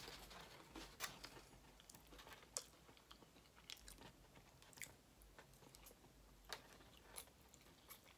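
Faint chewing of a mouthful of noodles, with scattered soft clicks at irregular intervals.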